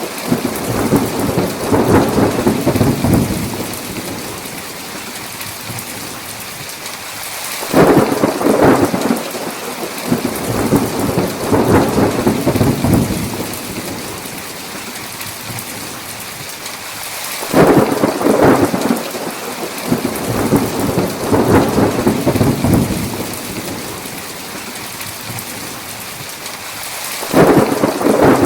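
Heavy rain hissing steadily under a thunderstorm, with three sharp thunder cracks about ten seconds apart, each followed by a few seconds of rumbling that dies away.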